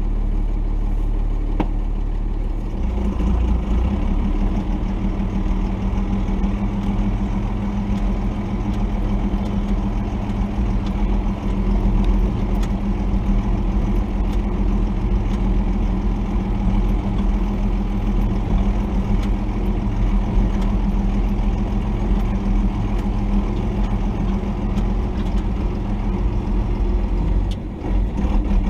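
The 1990 Dodge D250's Cummins 5.9-litre straight-six turbo diesel running steadily, with a brief dip in level near the end.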